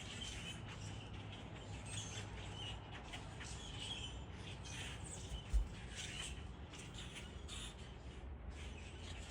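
Birds squawking and chirping in short, repeated calls, with one dull thump about halfway through.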